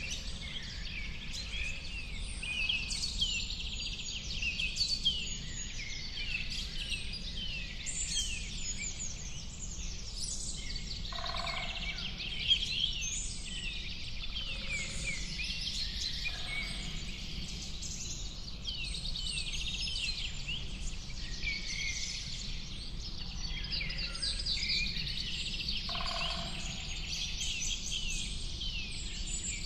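A dense chorus of many birds singing at once: rapid overlapping chirps and trills, with a lower call breaking through a few times, over a steady low background.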